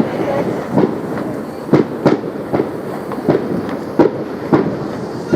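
Fireworks going off: a run of sharp bangs, roughly one every half second to a second, with steady noise between them.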